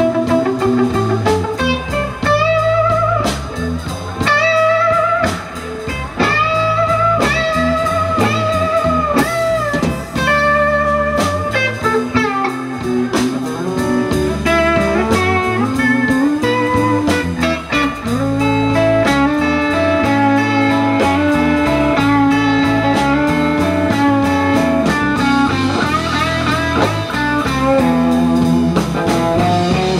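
Blues band playing an instrumental break: an electric guitar leads with bent, sliding notes over a walking bass line and drums.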